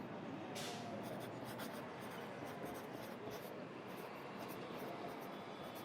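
Pencil writing on paper: a run of short strokes, one longer stroke about half a second in, over a steady low hum of city ambience heard from indoors.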